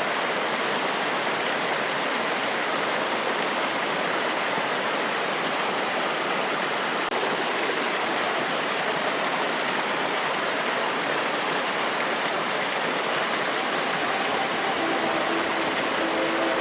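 Forest waterfall: a steady rush of water falling and running over rocks. A faint steady hum comes in near the end.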